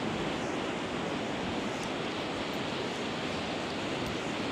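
Sea surf washing onto a sandy beach, a steady rush of noise, mixed with a brisk wind.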